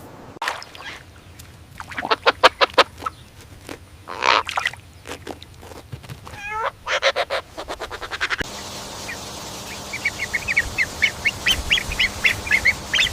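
Waterfowl calling in quick runs of repeated calls. About eight seconds in the background changes abruptly, and a fast series of short high chirps follows.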